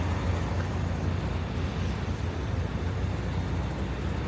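Steady low drone of a semi-truck's diesel engine heard from inside the cab, under an even rumble of noise.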